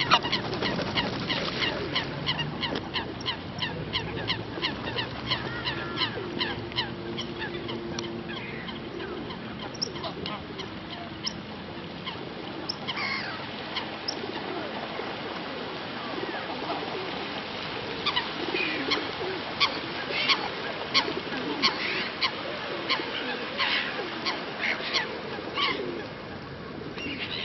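Geese honking in a rapid string of short, repeated calls. The calls thin out partway through and pick up again near the end.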